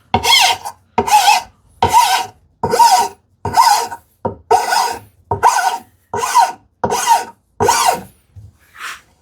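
Hand plane taking light strokes along the edges of a wooden drawer to round off its corners: about ten short shaving strokes, evenly paced, one every second or so, each with a faint rising-and-falling whine.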